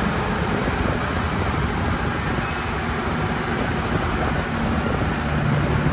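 Heavy diesel earthmoving machinery running steadily, a low engine rumble under a broad hiss.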